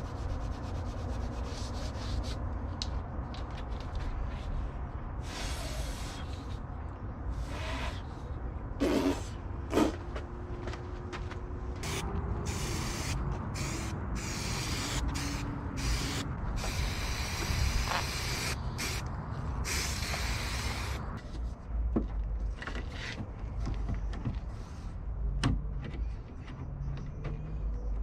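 Spray hissing in short bursts and then longer blasts, as a dirty part is cleaned, mixed with rubbing and a few sharp knocks of the part being handled.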